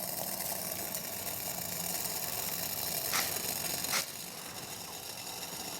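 Small wood gas pellet stove burning under a pot of water at a rolling boil, a steady hiss of flame and bubbling. Two brief clicks come about three and four seconds in, after which the sound is a little quieter.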